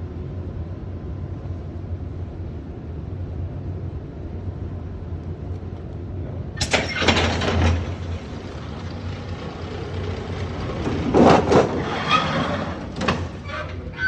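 Sheet-metal duct coil line machinery running with a steady low hum. It is broken by a sudden loud burst of metal noise about seven seconds in, then a cluster of louder clattering strokes a few seconds later as the sheet is fed and cut.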